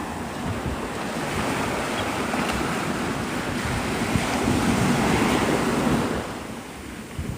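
Surf breaking and washing up a sandy beach, with wind buffeting the microphone. The rush of water builds for about six seconds, then drops off sharply.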